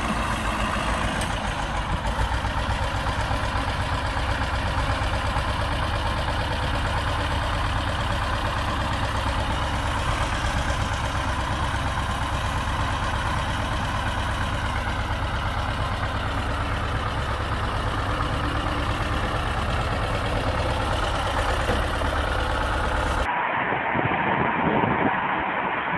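A heavy vehicle's engine running steadily. About 23 seconds in it cuts abruptly to a different, thinner-sounding recording.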